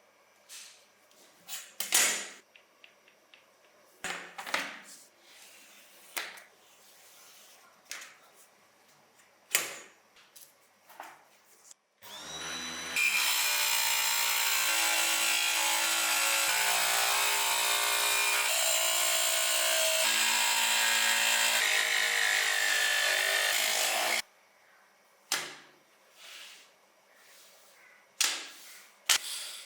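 A small power tool spins up about twelve seconds in and runs for about eleven seconds, its pitch shifting a few times, then stops suddenly. Before and after it come scattered light taps and scrapes of small parts being handled.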